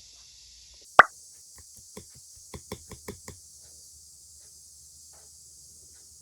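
Cicadas droning in the background, a steady high buzz. One sharp knock about a second in, then a quick run of about six light taps, as of hard objects or utensils in a kitchen.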